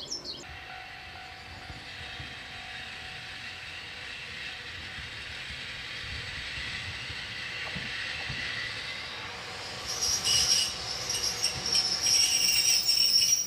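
Electric passenger train approaching on the track, its running noise slowly growing. From about ten seconds in it turns into a loud, high-pitched squealing with rattling as the train comes close.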